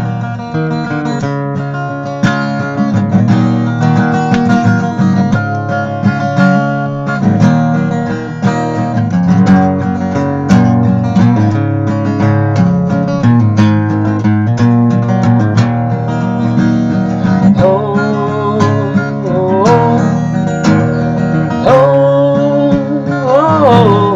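Acoustic guitar strumming through the instrumental break of a song, with a bending melody line joining over the last several seconds.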